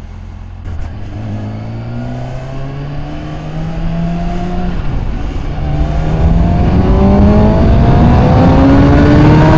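2013 Kawasaki Ninja ZX-6R 636's inline-four engine accelerating hard, its pitch rising through one gear, dropping at an upshift about five seconds in, then rising again and getting steadily louder.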